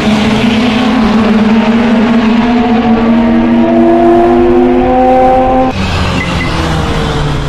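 Porsche 911 flat-six engine on a race track, accelerating hard with its pitch climbing steadily. About six seconds in the sound changes abruptly to a lower, falling engine note.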